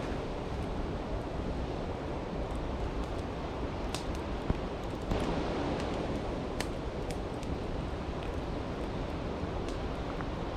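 Steady rush of a flowing creek, with a wood campfire giving a few sharp crackles and pops scattered through it.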